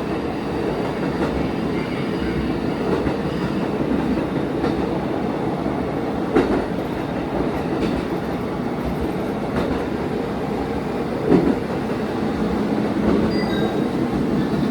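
Diesel railcar running along the line, heard from inside at the front: a steady engine and running drone with occasional knocks of the wheels over rail joints, the sharpest about six and a half and eleven seconds in.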